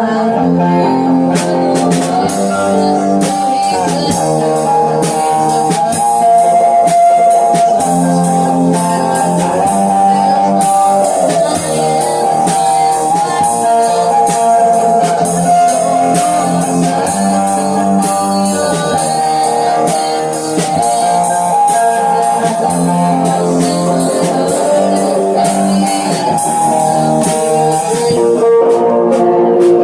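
Rock band playing an instrumental passage: guitar-led with a drum beat underneath.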